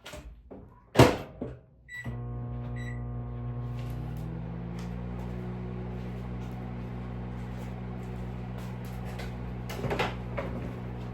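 A microwave oven's door knocking shut, two short keypad beeps, then the oven starting up and running with a steady hum.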